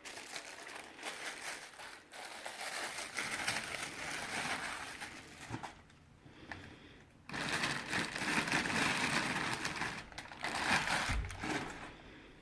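Packaging being handled, rustling and crinkling in irregular spells, louder in the second half.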